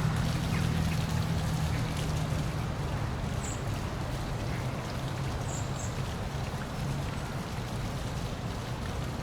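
Park waterfall splashing steadily, with a low steady hum underneath and a couple of faint high chirps about three and a half and five and a half seconds in.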